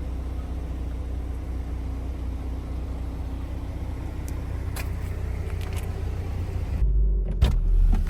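Car engine running steadily with a low rumble, with a few light clicks about five seconds in and a louder low-pitched shift near the end.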